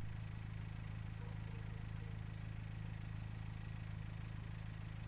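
An engine running steadily at idle: an even low hum with a constant hiss above it.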